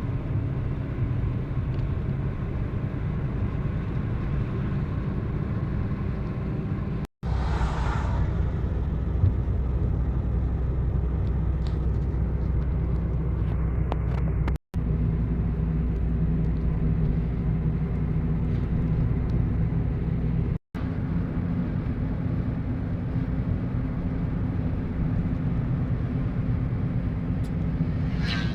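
A vehicle's engine running steadily with a low road rumble. The sound drops out for an instant three times.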